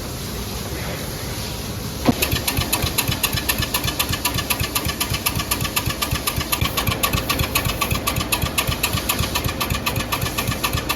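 Cub Cadet lawn tractor engine cranked over by its starter from about two seconds in, turning with a fast, even chug but not catching.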